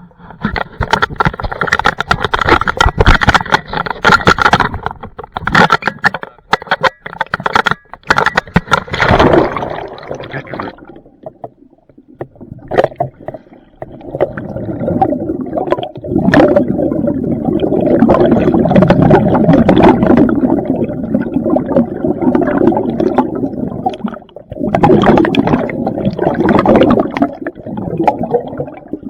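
Underwater hull-cleaning sounds: a dense wash of scraping with sharp clicks against the hull, then, from about halfway, long rough stretches of gurgling bubbles.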